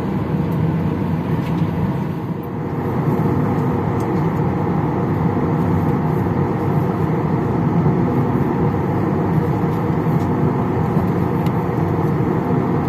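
Steady cabin ventilation noise inside a Boeing 737-800 parked at the gate, a constant rushing with a hum of fans and air-conditioning running, and a few faint clicks.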